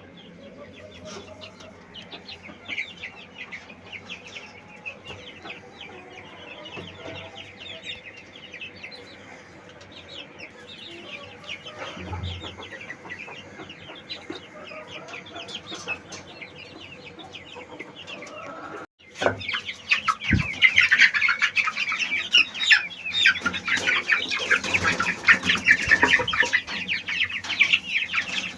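A flock of Polish chickens clucking and chirping with many short, quick calls. The sound cuts out briefly about two-thirds of the way through, then the calling comes back louder and busier.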